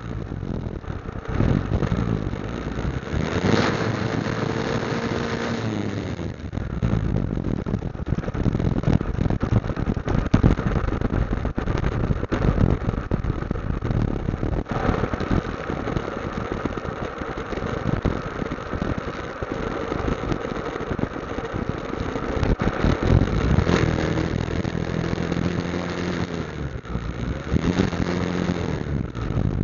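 Motorcycle engine running on the move, its pitch shifting up and down near the start and again near the end, with heavy wind rush buffeting the microphone through the middle.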